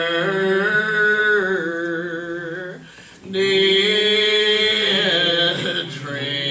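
A slow hymn sung in long drawn-out held notes, the words stretched over several seconds each, with a short break for breath about three seconds in.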